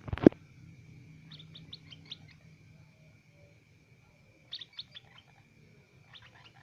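A hungry pet bird chirping for food in short clusters of quick, high chirps, three bursts with pauses between them. A loud knock comes right at the start.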